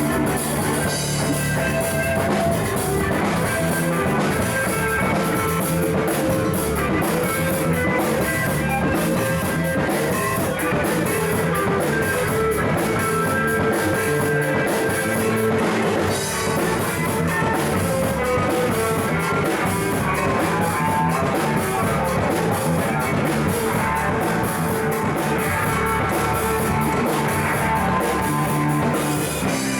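Live rock band jamming: electric guitar and drum kit playing steadily, with cymbals throughout.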